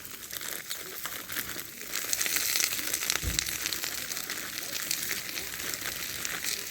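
A plastic bag of frozen vegetables crinkling, then, about two seconds in, a steady sizzle as semi-frozen broccoli and cauliflower hit hot oil in a frying pan, with a dull bump partway through.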